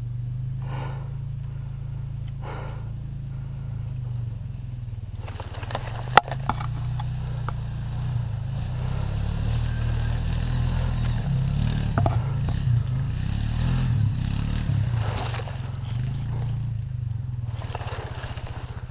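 Rustling and scraping of clothing and brush as a player moves, over a steady low rumble, with one sharp click about six seconds in.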